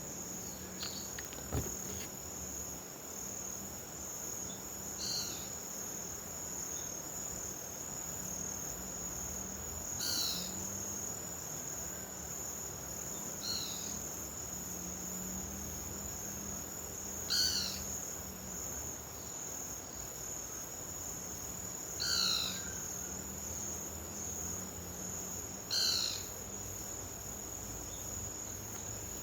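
Insects, crickets by the sound of it, keep up one unbroken high trill. Over it a short falling call repeats about every four seconds, with a faint low hum underneath.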